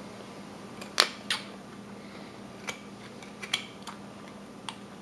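Carving knife cutting small chips from a wooden figure: a handful of short, crisp clicks and snaps, the loudest about a second in, over a faint steady hum.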